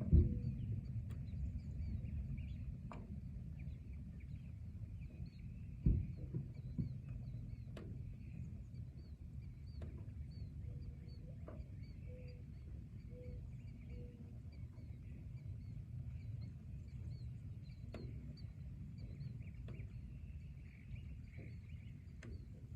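Forest ambience: birds calling, with a run of quick high chirps and, twice, a short series of low repeated notes, over a steady low rumble. Scattered sharp ticks sound throughout, and a thump comes about six seconds in.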